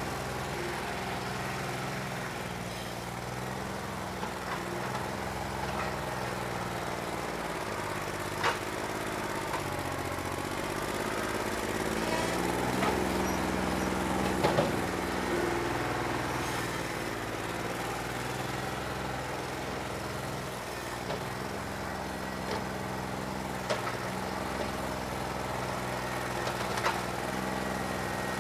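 New Holland 1320 tractor's diesel engine running steadily, with a bad injector, its speed dipping and picking back up about ten seconds in. A few sharp knocks or clanks sound over it.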